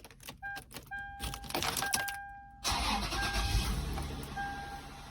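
Clicks and key sounds with a car's warning chime dinging on and off. About two and a half seconds in, a car engine starts and settles into a low idle while the chime continues.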